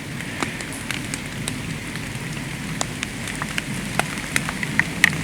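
Light rain falling in the woods: a steady patter with scattered individual drops ticking sharply at irregular intervals, the loudest near the end.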